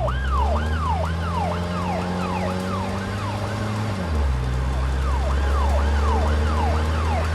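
Emergency-vehicle siren sound effect in a fast yelp, its pitch sweeping up and down about three times a second, over a steady low engine hum that drops in pitch about four seconds in.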